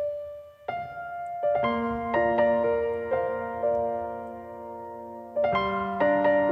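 Piano intro of a song's backing track: a single held note, then notes and chords struck one after another and left to ring, building into a fuller chord about five and a half seconds in.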